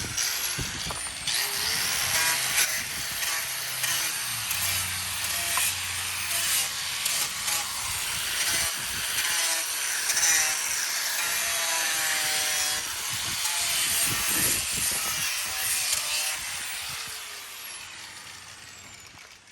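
A hand tool working wood: a continuous rough rasping with an uneven stroke rhythm, fading out over the last couple of seconds.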